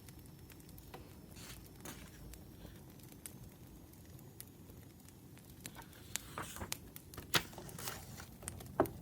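Wood fire crackling over a low steady hum, with scattered sharp pops that come thicker and louder in the second half.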